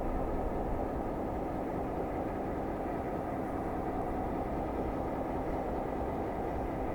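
Diesel locomotive running steadily, a constant even rumble with a faint low hum.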